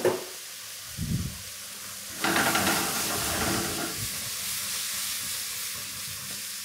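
Diced cèpe mushrooms with shallots and garlic sizzling in oil and butter in a steel frying pan over a high gas flame. About two seconds in the sizzle jumps louder and keeps going steadily as the pan is tossed.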